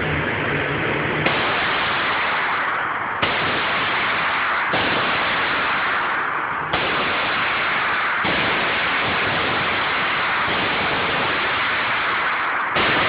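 Shots from a 9 mm AR-15 rifle, about six of them spaced one and a half to four seconds apart. Each starts suddenly and fades into a long tail, over a constant loud hiss.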